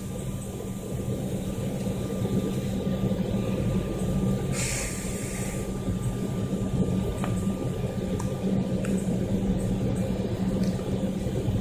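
Airliner cabin noise as heard from a passenger seat: the engines' steady low rumble with a faint constant tone, and a brief hiss about five seconds in.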